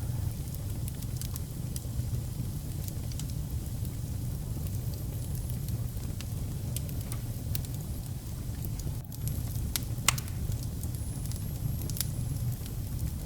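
Wood fire burning in a fireplace: a steady low rumble of flames with irregular crackles and small pops throughout, one sharper pop about ten seconds in.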